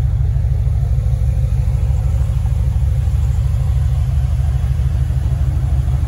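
Chevrolet Camaro's engine running with a steady, loud low rumble as its rear tires spin in a smoky burnout.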